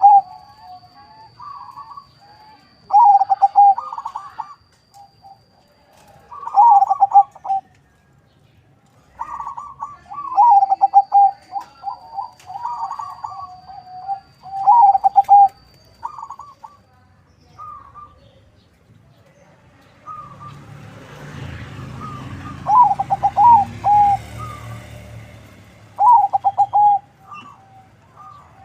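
Zebra dove (perkutut), a local × Bangkok cross, cooing in repeated short phrases every few seconds, with a longer run of phrases in the middle. A rushing noise with a low rumble rises and fades about twenty seconds in.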